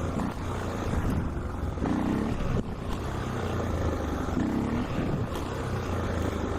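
Motorcycle engine running while riding, with wind rush on the microphone; the engine note swells and falls back about every two and a half seconds.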